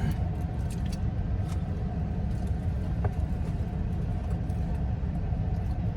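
Steady low rumble inside a van's cabin with the engine running, with a few faint ticks.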